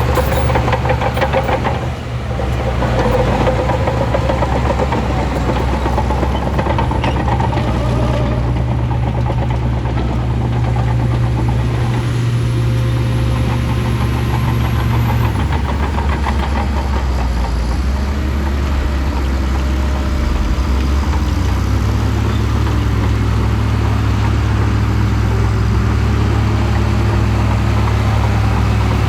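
A Shantui crawler bulldozer's diesel engine runs steadily under working load. Its note drops about halfway through and picks up again several seconds later.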